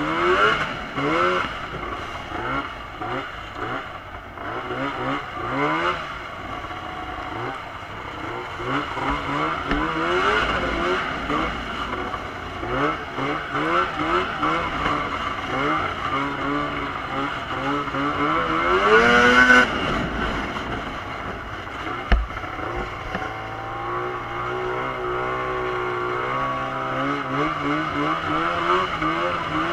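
Arctic Cat M7 snowmobile's two-stroke engine revving up and down over and over, with one long rev climbing to a peak about two-thirds of the way through. After that it runs steadier at lower revs, with a single sharp knock just after.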